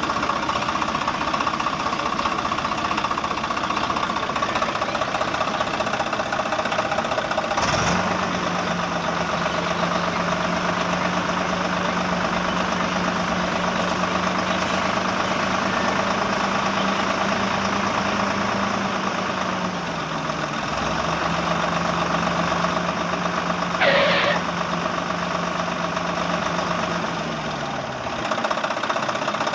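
Tractor engine running steadily, with a low hum that comes in about a quarter of the way through, dips slightly in pitch about two-thirds in and fades near the end. Two short clicks are heard.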